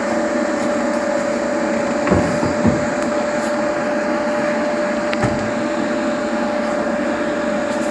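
A steady mechanical drone with a constant mid-pitched whine, like a shop machine or fan running, with a few short knocks of metal parts being handled about two seconds in, shortly after, and about five seconds in.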